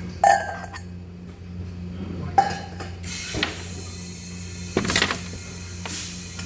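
Metal workpieces or tools clinking twice with a short ring, over a steady electrical hum from the welding setup, followed by a few short hissing bursts typical of a TIG torch's gas flow or brief arc strikes.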